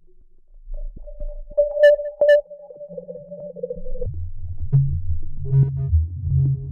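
Synthesized, distorted drone sound effect: a steady buzzing mid tone with two sharp clicks, then about four seconds in a deep, overdriven sub-bass drone that pulses.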